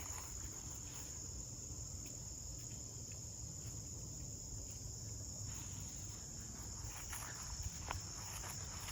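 Crickets chirring in a steady, high-pitched evening chorus, with a few soft footsteps on the trail near the end.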